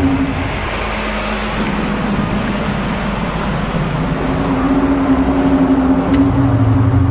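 Unexplained low droning sound of the kind reported as 'sky trumpets': loud held tones that step in pitch, dropping about half a second in, rising again about four seconds in, with a deeper tone joining near the end, over a steady rumbling hiss. Its source is not identified, and it is not birds.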